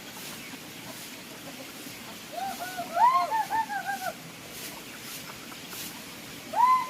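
Chickens calling over a steady outdoor background hiss: a quick run of short, arched calls about two and a half seconds in, and another pair near the end.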